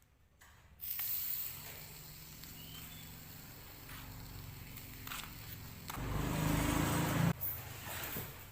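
Car engine running steadily after starting about a second in, then revved briefly about six seconds in before settling back.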